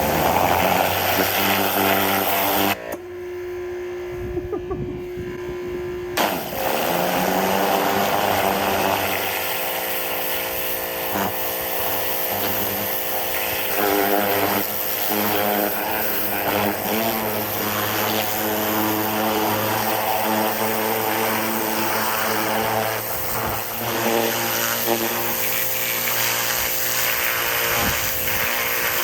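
Ryobi 2300 PSI corded electric pressure washer running and spraying, its motor and pump humming under the hiss of the water jet. The spray stops briefly about three seconds in and starts again around six seconds in.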